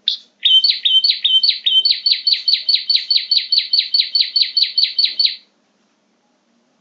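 Prenjak (prinia) call from a bird-lure recording: one short note, then a fast run of sharp downward-sweeping chirps that speeds up to about five a second and stops abruptly about five seconds in.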